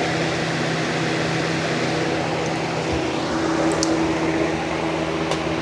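Lasko B20200 box fan running steadily with a broken blade, a hum under a broad whoosh of air. The broken blade throws it badly out of balance, so it shakes the bench it sits on.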